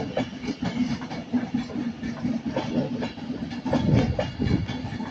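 Avanti West Coast Class 390 Pendolino electric train moving through the station, its wheels clattering irregularly over rail joints and points, loudest about four seconds in.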